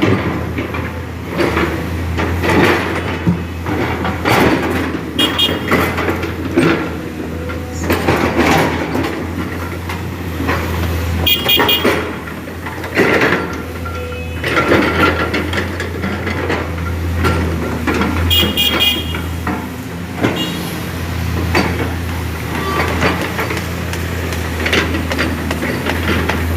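A heavy vehicle or construction machine engine running with a steady low hum, under frequent irregular knocks and clanks, with a few short high-pitched tones about 5, 11 and 18 seconds in.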